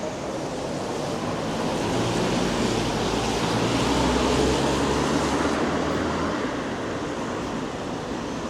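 A motor vehicle passing on a wet road: the hiss of tyres on wet tarmac swells to a peak in the middle and fades, over a low engine hum.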